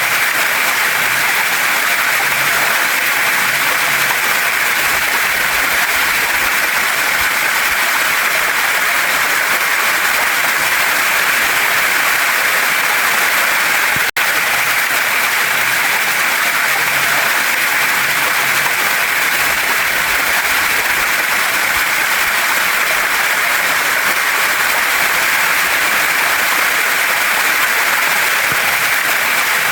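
Waterfall and stream water rushing over rocks: a loud, steady, even hiss that does not change, except for a split-second dropout about halfway through.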